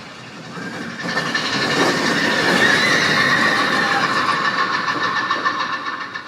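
Big Thunder Mountain Railroad's mine-train roller coaster running on its track: a rumble that swells about a second in, with a steady high metallic squeal over it, then fades near the end.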